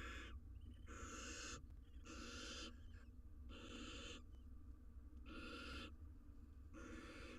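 Barn owl nestlings giving their rasping, hiss-like begging "snore" calls, about six in a row at a steady pace of roughly one every second and a quarter, over a faint steady low hum.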